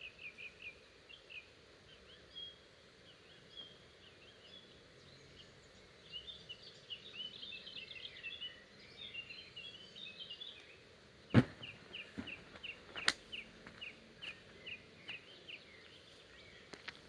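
Small songbirds chirping in woodland: quick runs of short high chirps, later settling into a steady run of about three chirps a second. A sharp knock sounds about eleven seconds in, the loudest moment, followed by a lighter click a couple of seconds later.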